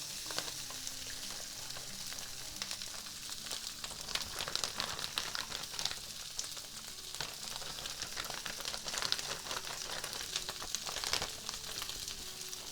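Pre-cooked chicken fried rice frying in hot oil in a pan, sizzling with a steady crackle.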